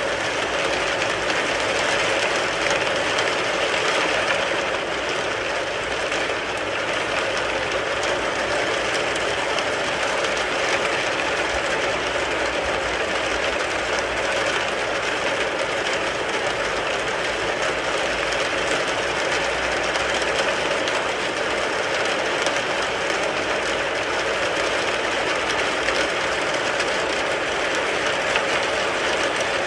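Rain falling steadily on a car, a dense, even patter of drops.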